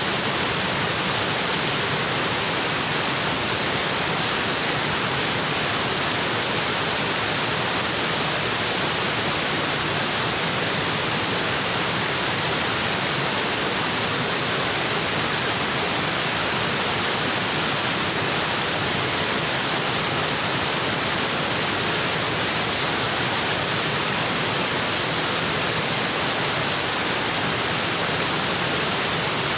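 Tropical waterfall, water falling onto rocks in a steady, unbroken rush.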